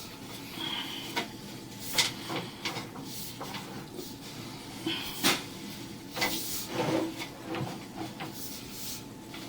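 Sewer inspection camera push cable being fed into the drain line, with irregular clunks, knocks and scrapes over a light hiss.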